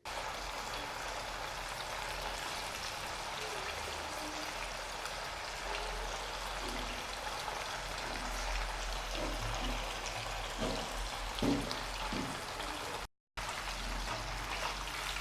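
Marinated chicken pieces deep-frying in hot oil in a kadai: a steady sizzle, with a few soft thuds about two-thirds of the way through as pieces go in or are moved.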